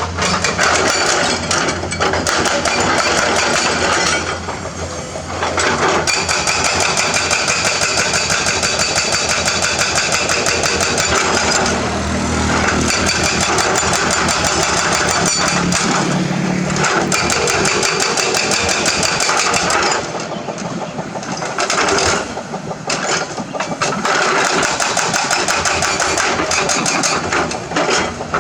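Hydraulic excavator working on limestone: a diesel engine running hard under a rapid, steady clatter of repeated impacts, easing off briefly a few times.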